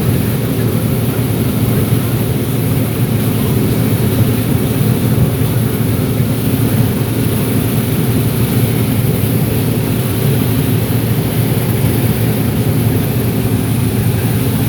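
John Deere 9760 STS combine running steadily under harvest load: a constant low drone of engine and machinery with even, unchanging tones.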